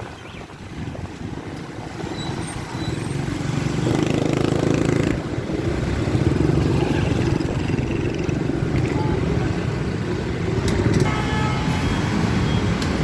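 Motorcycle engine running under way with road noise, getting louder about four seconds in and then holding steady.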